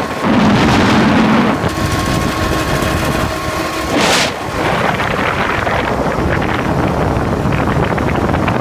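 Ford Model T speedster's four-cylinder engine running at road speed with a rapid, even exhaust rattle, mixed with wind noise on the microphone. A brief loud rush of noise about four seconds in.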